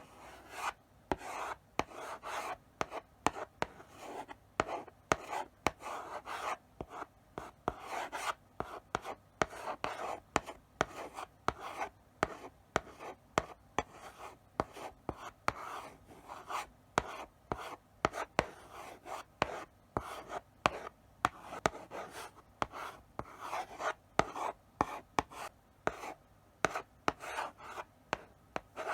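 Chalk writing slowly on a blackboard: short scratchy strokes, each starting with a sharp tap of the chalk on the board, with brief pauses between characters.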